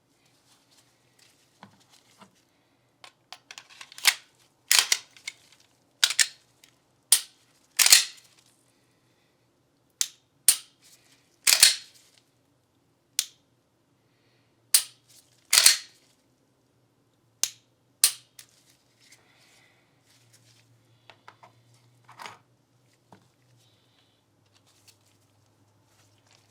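Glock 19 Gen 5 pistol being handled: a string of sharp, loud clicks and snaps, some doubled, about a second apart, thinning out in the last third.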